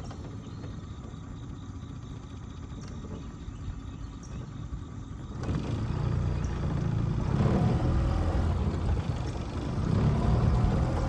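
Boat's outboard motor running under way with a low rumble; about halfway through it gets markedly louder and stays up.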